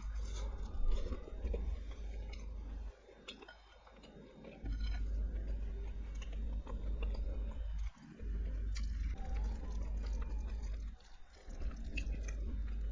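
Close-miked chewing of food, with wet mouth clicks and occasional crunchy bites. The chewing stops for a moment about three seconds in, again near eight seconds and near eleven seconds.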